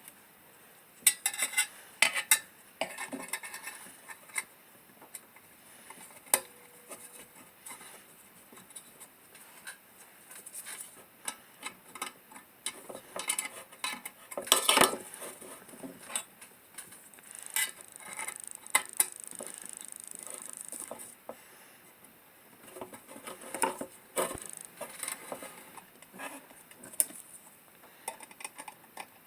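Metal oil-lantern parts clinking and tapping as they are handled and fitted, in scattered light knocks with a few louder clinks, and a stretch of steady rubbing about two-thirds of the way through.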